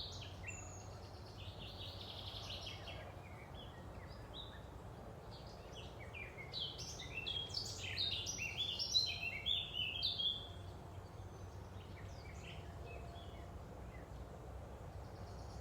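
Songbirds singing: short chirping and trilling phrases, with a loud quick run of song in the middle, over steady low background noise.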